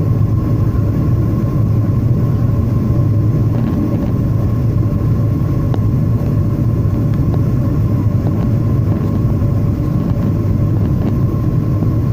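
Steady cabin noise inside a Boeing 737-800 airliner in flight: an even low rumble of airflow and its CFM56 engines, with a constant hum above it.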